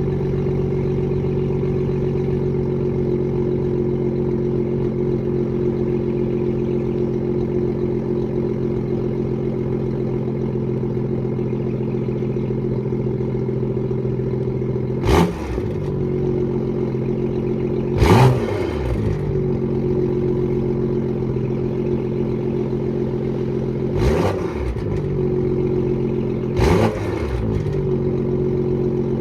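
BMW M2 with an M Performance exhaust idling steadily after a cold start, blipped four times, each rev rising sharply and falling back to idle: two about halfway through, three seconds apart, and two more near the end.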